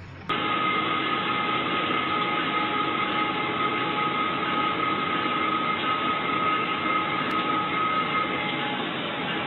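Train running, a steady rushing noise with a thin steady whine on top that fades out near the end. It starts abruptly.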